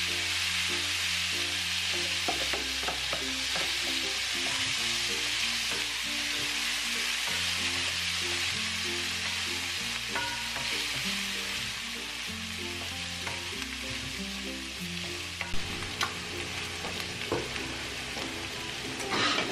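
Frozen mixed vegetables sizzling in hot oil and sausage fat in a frying pan, stirred with a spatula. The sizzle eases a little in the second half, with a few sharp spatula taps near the end, over soft background music.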